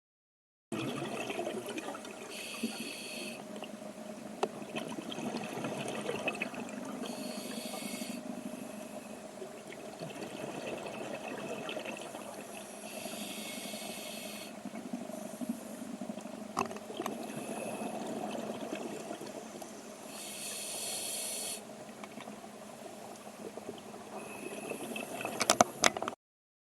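Underwater scuba breathing: bursts of exhaled bubbles from the diver's regulator, about every five to six seconds, over a low watery rumble. A few sharp knocks near the end.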